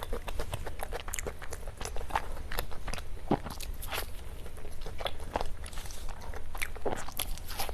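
Close-miked eating of cake: chewing and biting, with many quick, irregular mouth clicks and small crunches.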